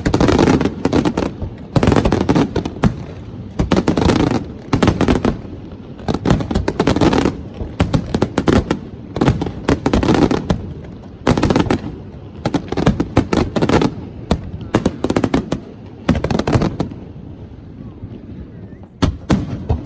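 Fireworks display: rapid, dense volleys of sharp bangs and crackling that thin out about 17 seconds in, followed by a couple more bangs near the end.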